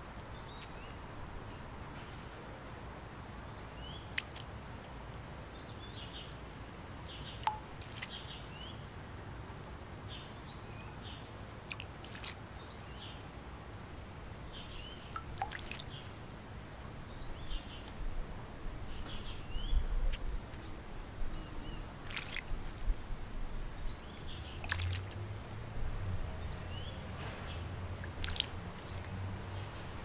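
Small birds chirping again and again, short high calls, with occasional light splashes and drips as a small bird bathes in the shallow water of a concrete bird bath. A low rumble joins near the end.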